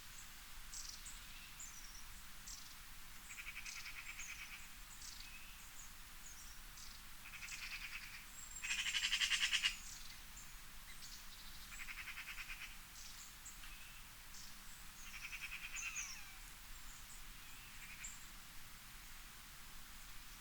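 Outdoor nature ambience: many short, high bird chirps, with a pulsed trill about a second long repeating every few seconds, the loudest trill about nine seconds in.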